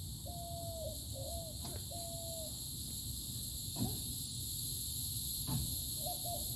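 Repeated short hooting calls at one even pitch, each ending with a slight drop, fading out around the middle. There are a few faint knocks and steady outdoor background noise.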